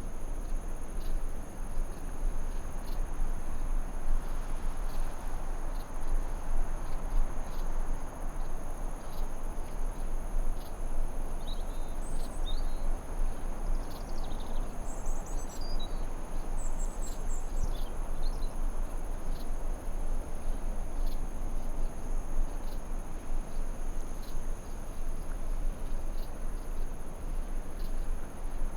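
Forest ambience: a steady high-pitched insect drone over an even hiss, with a few short bird chirps a little before the middle.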